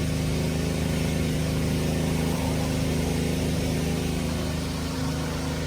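A steady low machine hum, made of several fixed low tones that run without change, like a motor or engine running constantly.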